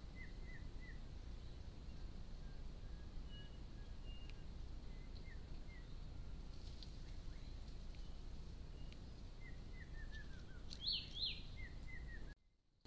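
Wild birds calling in the bush: short repeated chirps, a falling run of notes about ten seconds in, then two louder downward-sweeping calls, over the steady hiss of a trail camera's microphone. The sound drops out briefly near the end.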